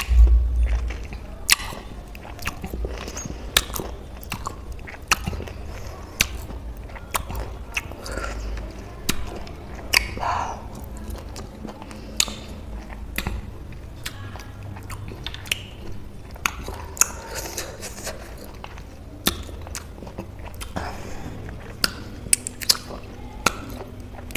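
Close-miked chewing of juicy citrus segments coated in chili salt, with wet smacking and clicking mouth sounds scattered throughout. A breathy puff comes right at the start.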